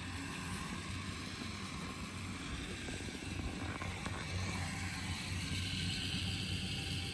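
Tow truck's winch running steadily, hauling the car in on a line doubled through a snatch block, over a constant low hum from the truck. A higher whine grows stronger about five seconds in.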